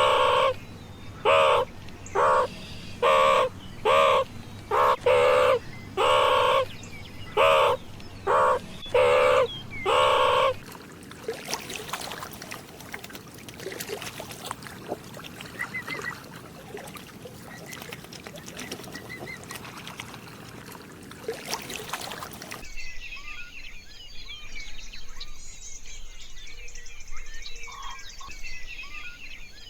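A series of about a dozen loud animal calls, each with a clear pitch and lasting about half a second, repeating roughly once a second for the first ten seconds. After that comes a quieter stretch with faint chirps, and about three-quarters of the way through a different recording of small birds chirping.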